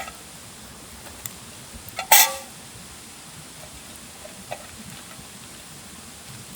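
A single metallic clank of cookware about two seconds in, ringing briefly, with a few faint ticks over a steady background hiss.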